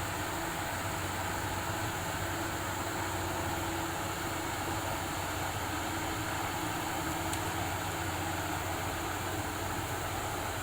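Komatsu D85SS-2 crawler bulldozer's diesel engine running steadily.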